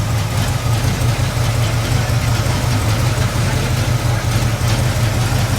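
Dodge Viper SRT-10's V10 engine idling steadily, with no revving.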